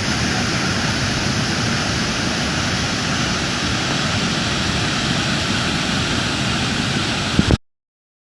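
Waterfall: a steady rush of falling water, cutting off suddenly near the end.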